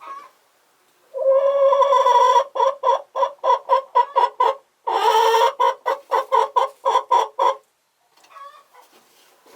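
A chicken cackling loudly: a drawn-out call followed by a quick run of short clucks, about four or five a second, twice over, stopping well before the end.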